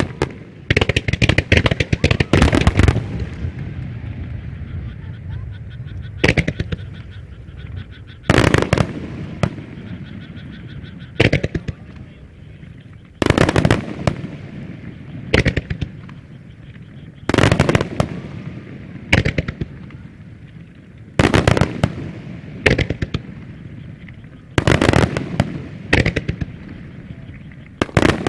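Starmine fireworks display: aerial shells bursting in a dense volley of sharp bangs for the first few seconds, then in quick clusters of bangs about every two seconds, with crackling between the clusters.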